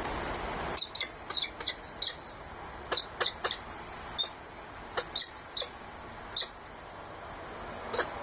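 Bird calling in a series of about fifteen short, high chirps, some single and some in quick runs of two or three, over a steady background hiss.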